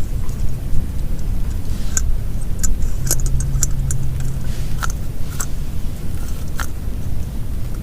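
Heavy rain drumming on a plastic tarp: a dense, steady low rumble with scattered sharp ticks of single drops striking it.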